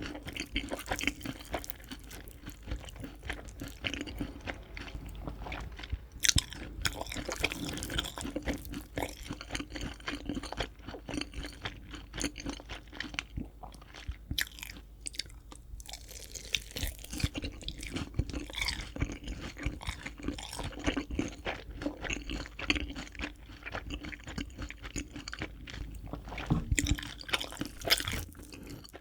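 Close-up crunching and chewing of crispy fried chicken, a dense run of crackling bites and chews.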